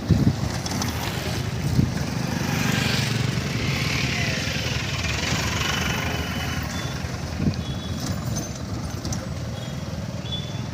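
Loaded freight train of BTPN oil tank wagons rolling past, a steady low rumble of wheels on rails with a few knocks.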